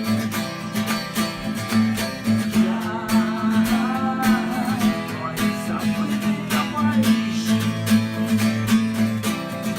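Acoustic guitar strummed steadily in an instrumental passage of a live song, with a wavering melody line over the chords for a couple of seconds around the middle.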